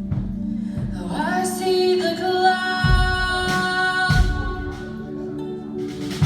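Worship music: a woman sings long held notes over a band, with a few deep bass-drum thumps.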